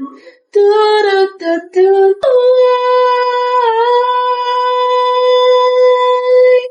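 A woman singing solo: a quick run of short scat syllables ("do-do-do-do"), then one long held note that dips briefly in pitch and runs almost to the end.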